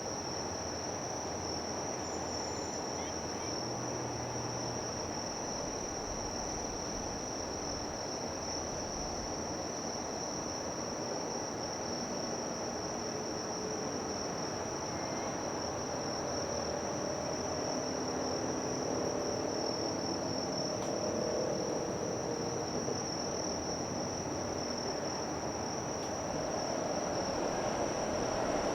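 Steady, unbroken high-pitched chorus of insects, over a low rumble of harbour ambience. Faint low steady tones join in during the second half.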